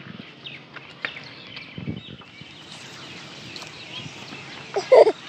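Small birds chirping and twittering, with a short loud vocal cry near the end.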